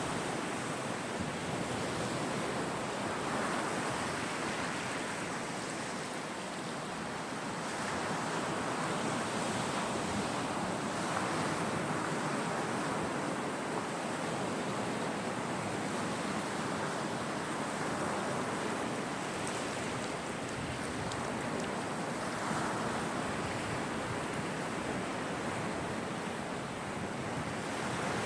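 Caspian Sea waves breaking on the shore: a continuous wash of surf that swells and eases every few seconds.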